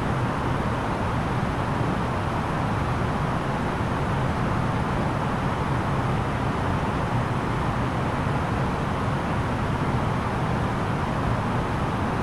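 Steady cabin noise of an Airbus A330-900neo in flight: an even rumble and rush of engines and airflow, unchanging throughout.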